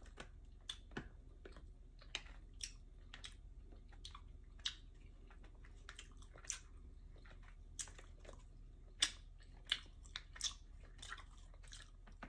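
A person quietly chewing a soft gummy bear, with irregular faint mouth clicks and smacks.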